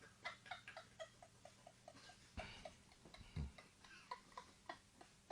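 Faint ticking against near silence: a quick run of about five ticks a second at first, then scattered ticks with a couple of soft low thumps.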